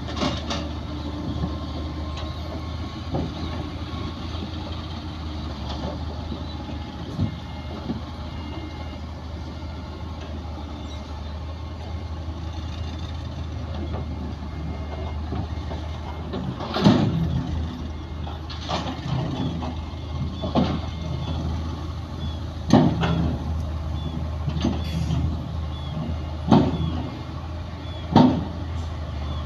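Heavy diesel earthmoving machinery running steadily at the fill site, joined about halfway through by a series of loud clanking knocks, roughly one every one and a half to two seconds.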